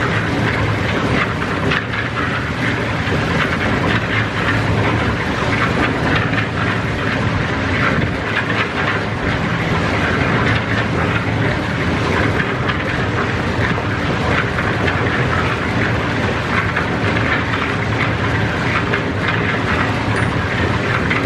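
A machine running steadily with a continuous clattering rattle over a low motor hum, at an even level throughout.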